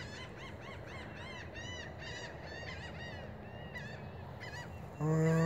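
A bird calling over and over in a quick series of short, high notes that rise and fall, about two or three a second. Near the end comes a brief, louder low 'hmm' in a man's voice.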